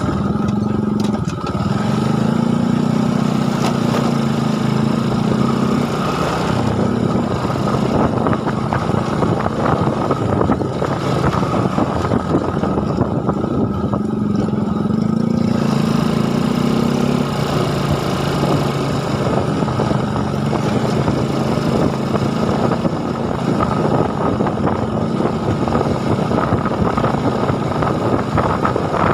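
A small engine running without a break, its pitch stepping up and down several times as the throttle changes.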